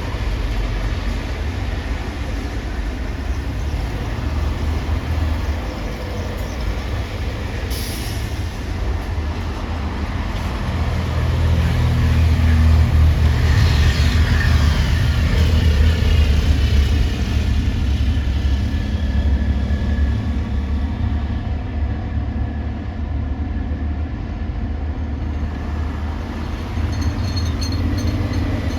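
Heavy vehicle running with a low, steady rumble that grows louder for several seconds in the middle as it passes close, then fades back.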